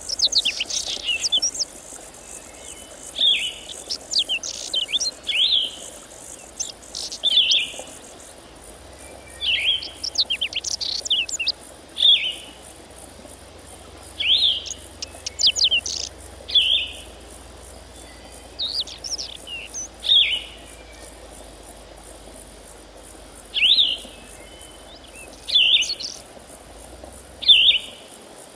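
A songbird singing short phrases of quick, high, falling chirps, about a dozen of them, one every two seconds or so. Under it runs a faint steady high hiss of insects.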